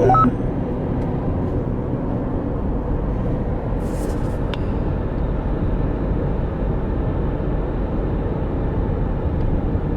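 Steady road and engine rumble from inside a moving car's cabin, with a brief hiss about four seconds in.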